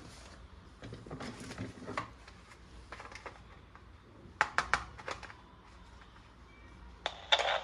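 Plastic toy parts being handled, with scattered clicks and rustles and a quick run of sharp clicks about halfway through. Near the end a toy's electronic sound effect starts up.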